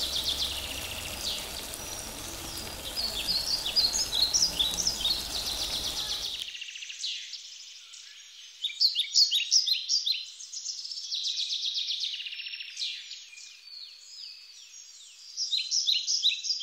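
Small birds chirping in rapid, repeated high calls. A steady hiss and low hum lie under them and cut off abruptly about six seconds in, leaving the chirping alone.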